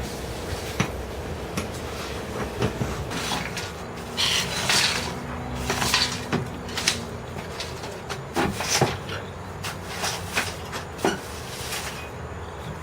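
Irregular knocks, clicks and short scrapes of hand repair work, with tools and materials being handled and set down.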